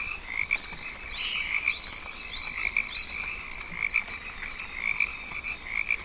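Rainforest frogs calling in chorus: a steady, pulsing trill, with short rising chirps repeated roughly twice a second over it.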